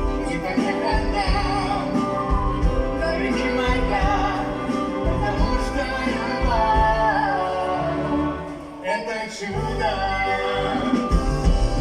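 A song from a stage musical: a voice singing over instrumental backing. The music drops briefly about nine seconds in, then comes back in.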